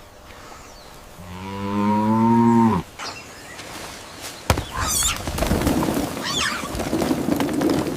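An Angus cow moos once, a call of about a second and a half starting about a second in and dropping in pitch as it ends. Then comes a sharp knock, followed by a stretch of noisy rustling with thin, high wavering calls.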